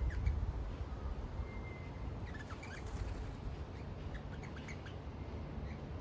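Wild birds calling in short, scattered chirps and one thin level whistle, busiest about two to three seconds in and again around four to five seconds. A steady low rumble lies underneath.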